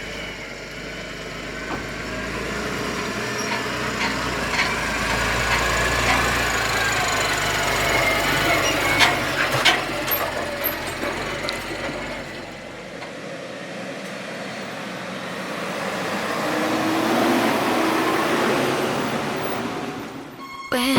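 Diesel farm machinery running, growing louder and fading twice as the machines pass, with a few sharp knocks near the middle.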